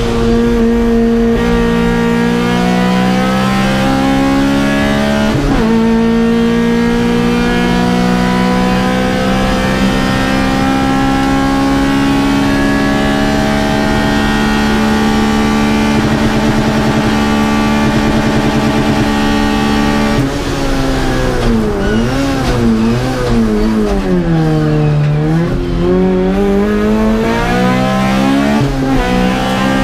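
Honda Civic VTi Group A race car's four-cylinder VTEC engine heard from inside the cabin under full throttle: upshifts about a second and a half and five seconds in, then a long pull with the revs climbing slowly. From about twenty seconds in, the revs swing rapidly up and down through downshifts and throttle blips as the car brakes for corners.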